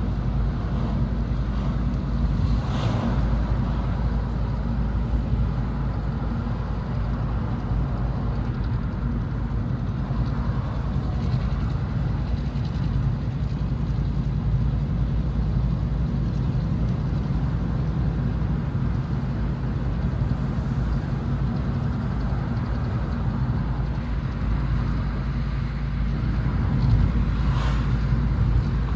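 Dump truck's diesel engine running steadily through a split exhaust manifold and vertical stack muffler, giving a low, even exhaust note. Brief hisses occur about three seconds in and again near the end.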